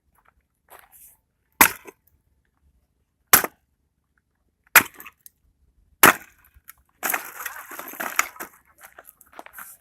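Axe striking firewood that is bound with bungee cords: four sharp chops, roughly one and a half seconds apart, followed by a couple of seconds of crackling and rustling as the wood splits apart.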